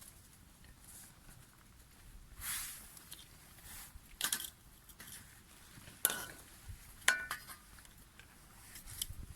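Scattered clinks and scrapes of a cooking utensil against a metal pan, with two sharper ringing clinks about six and seven seconds in.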